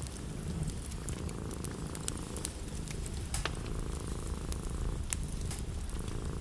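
A cat purring steadily, with the scattered sharp pops and crackles of a wood fire over it.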